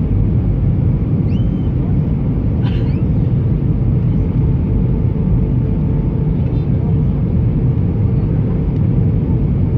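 Airbus A320 passenger cabin in flight: the engines and rushing air make a loud, steady low roar with a faint steady hum over it.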